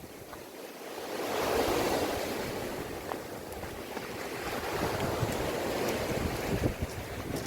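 Sea waves washing in, one swelling up about a second in and then an even wash of surf, with wind buffeting the microphone.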